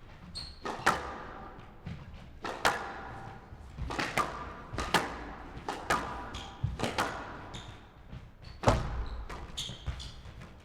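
Squash rally: the ball cracking off rackets and walls about once a second in a hall, each hit ringing briefly, with one heavier thud near the end.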